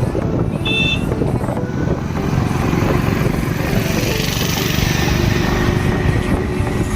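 Motorcycle engine running steadily while riding through city traffic, with road and wind noise. A short high beep about a second in.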